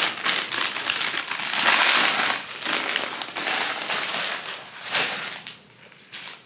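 Crinkly plastic packaging being handled: continuous rustling and crackling, densest about two seconds in, with a short louder crackle near the end.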